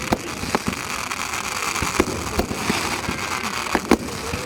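Fireworks going off: a string of sharp bangs at uneven intervals, the loudest just before the end, over a continuous crackling hiss.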